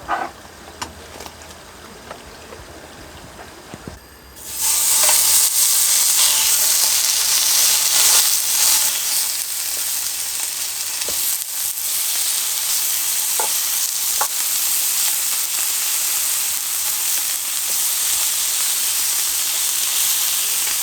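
Food sizzling in a hot pan. The frying starts suddenly about four seconds in and then keeps up a steady hiss, after a few light utensil clicks.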